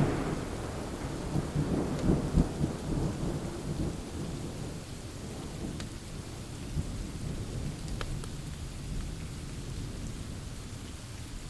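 Thunder rumbling and dying away over the first few seconds, over steady rain pouring. A few faint sharp crackles of a wood fire come through the rain later on.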